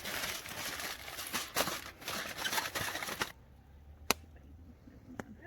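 Aluminium foil crinkling and rustling as chicken is wrapped, a dense run of small crackles for about three seconds that stops abruptly. Two sharp single clicks follow near the end.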